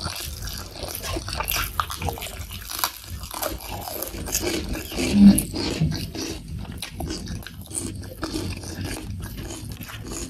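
Close-miked chewing, lip-smacking and wet mouth clicks of someone eating soft, saucy soy-braised boneless chicken feet and rice. About halfway through comes a short hum from the throat, the loudest moment.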